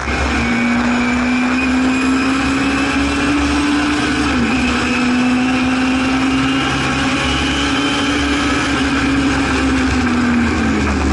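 Singer Chamois race car's rear-mounted all-alloy Hillman Imp four-cylinder engine heard from inside the cabin under hard acceleration, pitch climbing steadily. A quick upshift about four and a half seconds in, then it climbs again before backing off near the end, over heavy road and wind noise.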